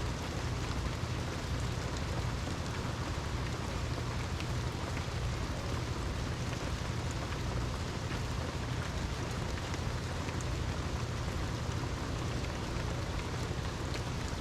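Steady heavy rain falling on surfaces, with a low rumble underneath and scattered drop ticks.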